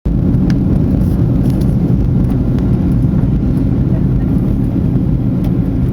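Steady low rumble of an aircraft's engines, with a few faint clicks.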